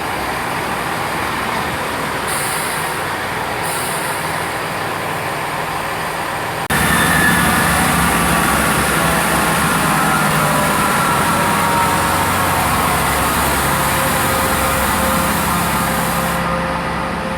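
Class 165 diesel multiple unit's engines running at the platform. About seven seconds in the sound jumps abruptly louder as the engines work hard for departure, with a faint falling whine, then eases off near the end.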